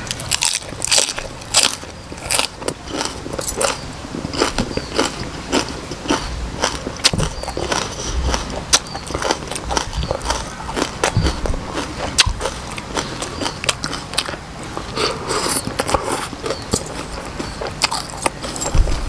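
Crunchy biting and chewing of raw green vegetable stems and rice noodles: a dense, irregular run of sharp crunches and wet mouth sounds.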